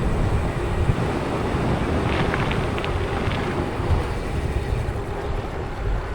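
Wind buffeting the microphone in a steady low rumble while on the move, with a few brief high chirps or squeaks in the middle.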